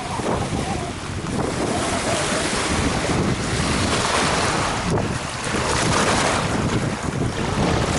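Strong wind gusting across the microphone: a loud, steady rushing noise that swells and eases.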